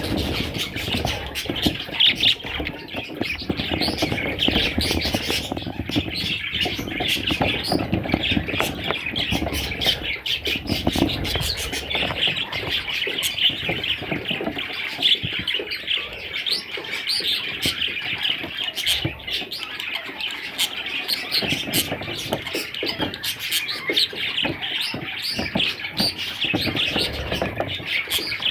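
Many budgerigars chirping and chattering at once, a dense, unbroken stream of short calls.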